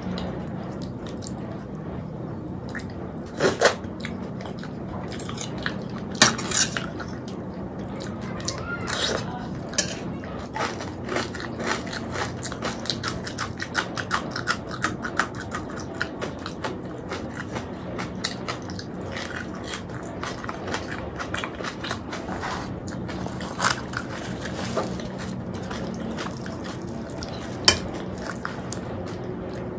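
Close-miked chewing and wet lip-smacking of a man eating puri with chickpea curry (chana masala), a steady patter of small mouth clicks with a handful of louder sharp smacks. A steady low hum runs underneath.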